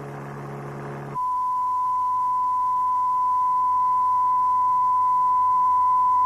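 A steady low buzzing hum ends about a second in. A pure 1 kHz test tone replaces it and holds, swelling slightly. These are frequency-reference demonstration sounds for training the ear to recognise noise frequencies.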